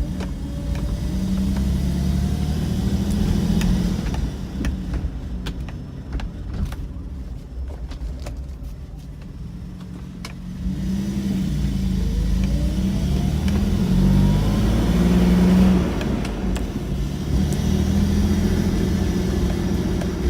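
A 2001 Isuzu VehiCross's 3.5-litre V6 running and being revved up and eased off several times, with a quieter stretch about midway. The engine has a large vacuum leak, left after it was driven with the intake-to-valve-cover vacuum hose disconnected.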